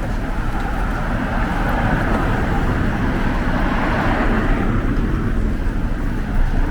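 Road traffic on a busy street: a steady low rumble, with one vehicle passing close, loudest about four seconds in and then fading.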